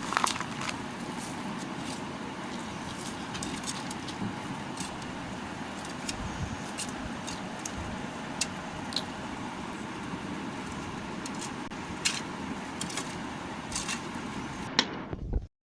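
Bars of soap being handled and cut: scattered sharp clicks and ticks over a steady background hiss. The sound stops abruptly near the end.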